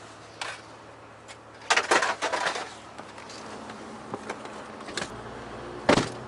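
Knocks and clatters of objects being handled, a cluster of them about two seconds in and a loud knock near the end, over a steady low hum.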